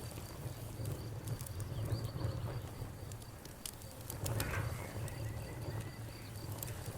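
Campfire crackling, with scattered sharp pops of burning wood over a low steady rumble. Behind it, insects chirp in a steady rapid pulse, with a brief call about four and a half seconds in.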